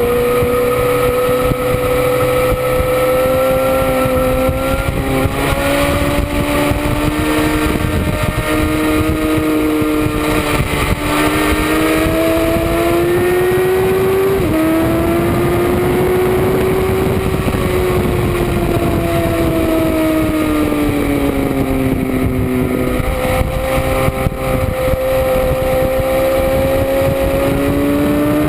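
Motorcycle engine running hard around a race track, its pitch climbing and falling with the throttle through the corners, with a sudden step in pitch about halfway through and another near the end of the second third, over steady wind rush.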